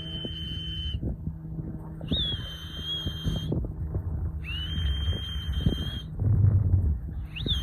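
A person whistling a steady, high note of about a second, repeated four times about every two and a half seconds, each starting with a quick upward flick: a pigeon fancier's call whistle to bring young racing pigeons in to trap into the loft. Low rumbling noise underneath, loudest about two-thirds of the way through.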